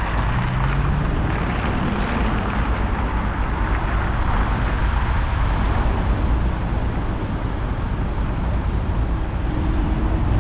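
Steady city road traffic, cars passing in a continuous rumble, with a vehicle engine rising in pitch as it pulls away near the end.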